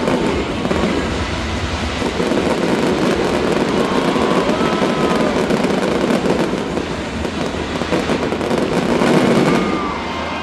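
Fireworks going off in a dense, continuous barrage of crackles and bangs, dropping away shortly before the end.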